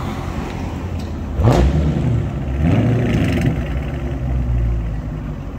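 Hemi V8 car engine running, blipped sharply about one and a half seconds in and revved again about a second later, then easing back.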